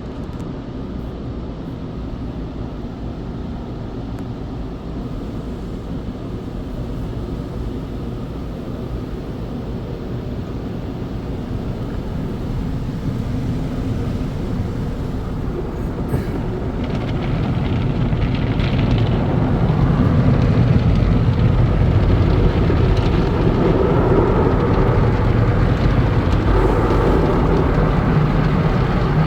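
MacNeil conveyor tunnel car wash equipment heard from inside the car: a steady low rumble and wash noise that grows louder from about halfway through as the car moves deeper into the tunnel.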